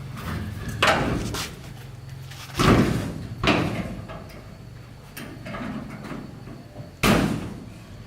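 Four heavy bangs, the loudest about two and a half seconds in and another near the end, over a low steady hum.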